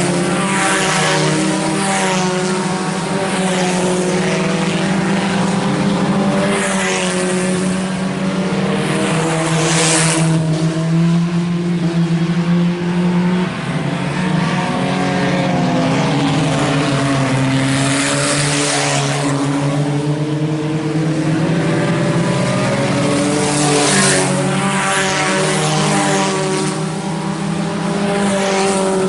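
A field of IMCA Sport Compact race cars racing laps, several engines revving and easing off together. Every few seconds the sound swells as cars pass close by.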